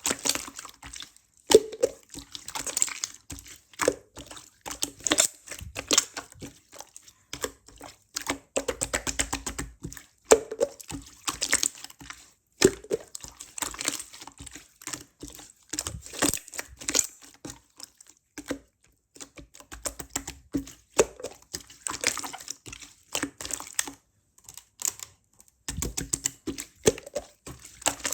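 Slime being pressed, poked and stretched by hand: a fast run of sticky clicks, crackles and small wet pops, coming in flurries with a few short pauses.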